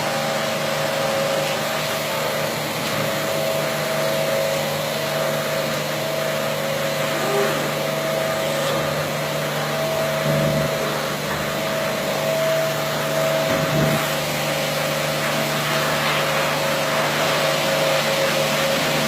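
Carpet washing machine running steadily: a motor drone with a steady whine and a rushing noise, unchanged throughout.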